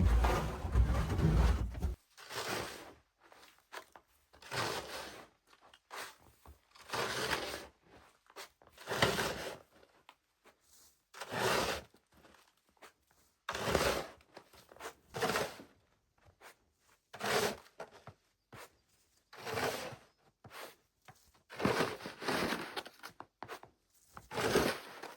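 Footsteps crunching through deep snow in a slow, steady trudge, one crunch about every two seconds. Wind buffets the microphone in the first two seconds.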